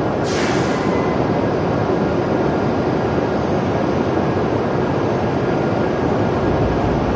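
E7-series Shinkansen train pulling into the platform at low speed: a steady rushing rumble, with the low rumble growing as it nears toward the end. A brief hiss sounds just after the start.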